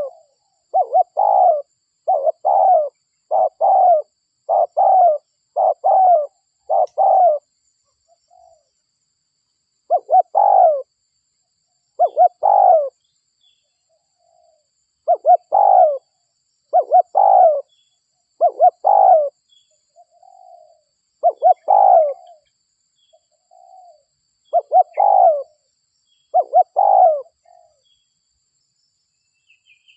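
Spotted dove (derkuku) cooing: a run of short coos about one a second, then sparser coos after a pause of a couple of seconds. It is a local derkuku's call used as a lure to draw other doves in.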